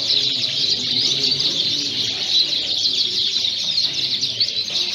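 Many Fife canaries singing and chirping at once in a dense, continuous chorus of quick trills, with a low murmur of people talking underneath.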